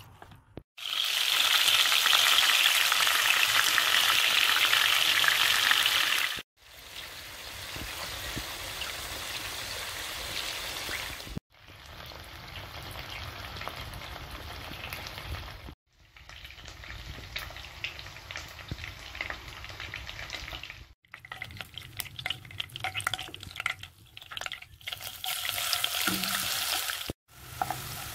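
Chicken pieces frying in hot oil in a wok: a steady sizzle and crackle, loudest in the first few seconds, broken by several abrupt cuts. Near the end a spatula stirs pounded spices sautéing in the oil, adding light scraping clicks over the sizzle.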